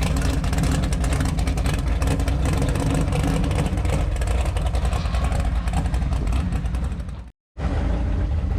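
Big-block methanol V8 of a burnout van running with a heavy, steady low rumble. The sound cuts off abruptly about seven seconds in, then resumes.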